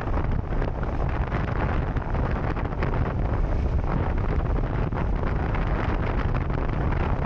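Wind rushing over the microphone on a moving motorcycle, a steady low rumble of wind and road noise.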